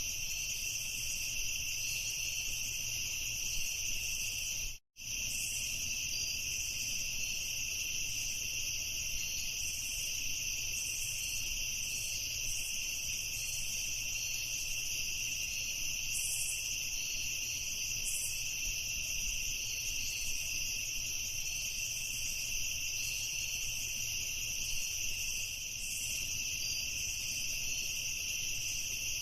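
A dense chorus of crickets chirping in a steady, unbroken high-pitched trill. The sound cuts out completely for an instant about five seconds in, then resumes unchanged.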